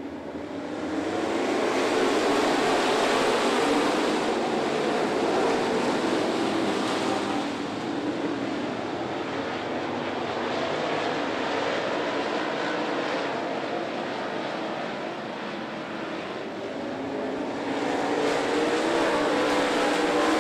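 Pack of dirt late model race cars running at speed, their V8 engines droning together. The sound swells about a second in, eases through the middle and swells again near the end as the field comes around.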